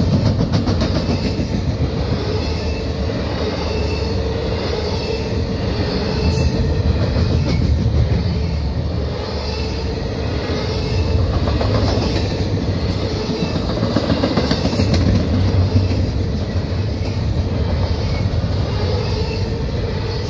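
CSX double-stack container train passing at speed close by: a steady rumble of steel wheels on the rails, with a steady tone running through it and a couple of sharp clacks of wheels over rail joints.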